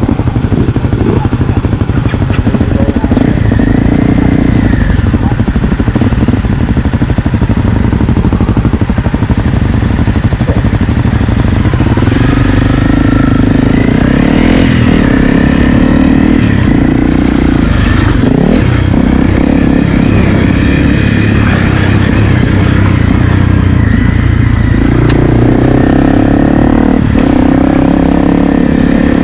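Honda CRF250L's single-cylinder four-stroke engine running loud while being ridden, the revs rising and falling again and again with the throttle and gear changes.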